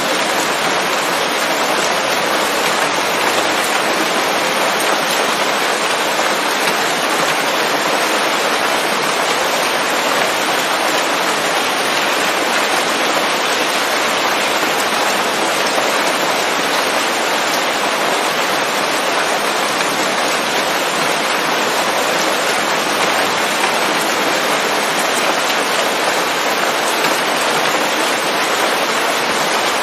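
Steady rain falling on leaves, an even unbroken hiss of many drops.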